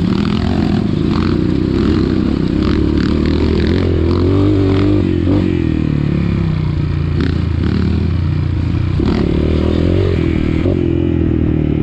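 Dirt bike engine running, its pitch rising and falling with the throttle, with scattered clattering knocks.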